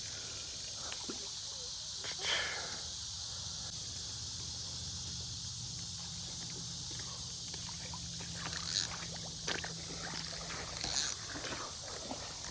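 Steady high-pitched insect chorus with a low steady hum beneath it, and a few faint brief rustles or splashes about two, nine and eleven seconds in.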